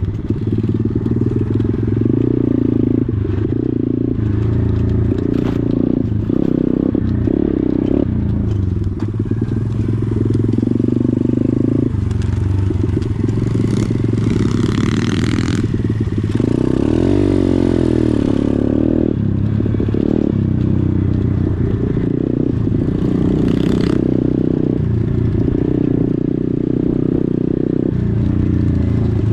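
Pit bike engine running while riding, its note shifting up and down as the revs change, with a short hiss about halfway through.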